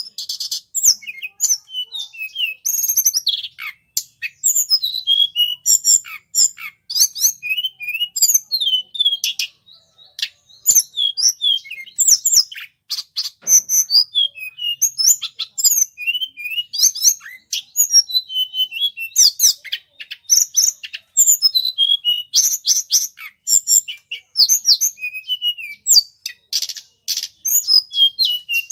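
Lure recording of flowerpecker (tledekan) calls: rapid, high-pitched chirps in quick succession, with only brief pauses.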